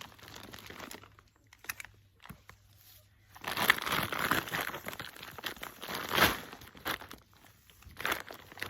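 Plastic feed bag crinkling and rustling in irregular bursts, with a few sharper crunches, as it is handled and pulled open to free a potted ginger plant's root mass.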